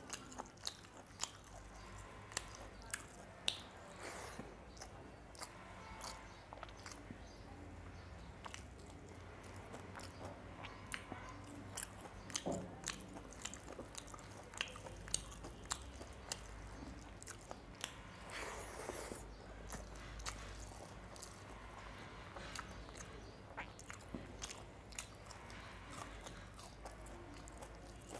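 Close-miked eating sounds: chewing of rice and small fish curry eaten by hand, with many short wet mouth clicks and occasional crunches. Fingers squish rice and gravy together on the plate between mouthfuls.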